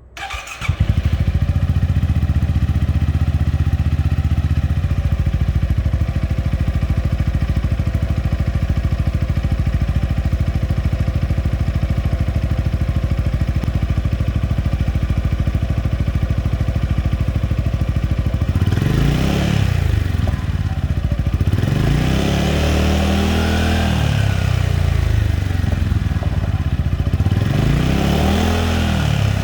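Yamaha XMAX 300 scooter's single-cylinder engine, breathing through a replica Akrapovic aftermarket exhaust, starts about half a second in and idles steadily. In the last third it is blipped several times, each rev rising and falling back to idle.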